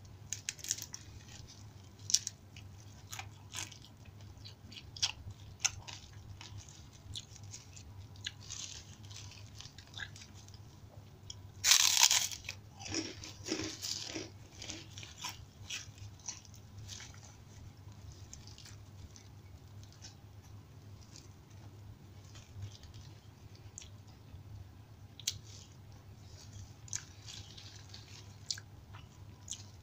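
Close-miked chewing and crunching of a rice meal with fried side dishes and crackers (kerupuk), eaten by hand. Scattered small crunches and clicks, with the loudest burst of crunching about twelve seconds in.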